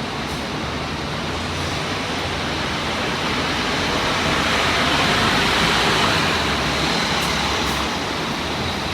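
Scania K230UB city bus under way, its engine and the road noise heard inside the cabin as a steady rush with a low engine hum beneath. The noise swells for a couple of seconds around the middle, then settles again.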